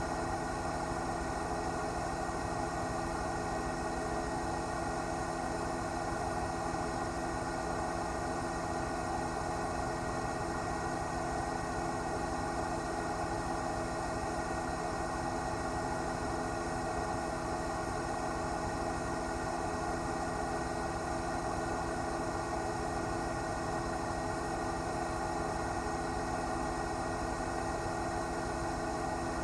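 News helicopter's engine and rotors running steadily: a constant drone with several steady tones and no change in level.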